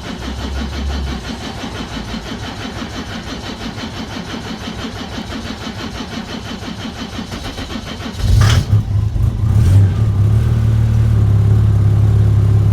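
The 3-litre inline-six diesel engine of a 1996 Mercedes E300D, running on used motor oil, cranking for about eight seconds before it catches and settles into a louder steady run. This slow, hard cold start is what the engine does on waste oil when it is cold outside.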